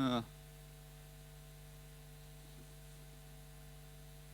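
Steady electrical mains hum with a faint hiss: the noise floor of the church PA system.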